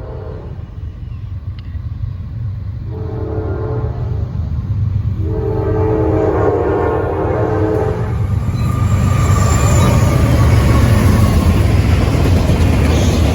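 Locomotive air horn sounding a chord: a shorter blast about three seconds in, then a longer one, the close of a grade-crossing signal as the train approaches. The locomotive's low rumble and wheel noise build steadily until the train is passing loudly.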